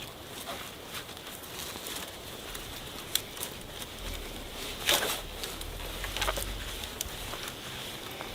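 Rain pattering steadily, with a few sharp clicks and knocks scattered through it, the loudest about five seconds in.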